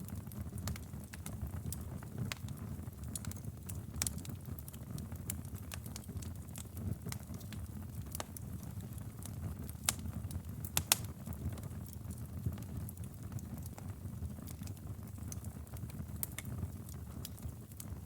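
Wood fire burning in a fireplace: a steady low rumble of flames with irregular sharp crackles and pops, a cluster of louder pops about ten seconds in.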